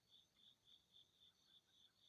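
Faint insect chirping: a high, evenly repeating pulse at about four chirps a second.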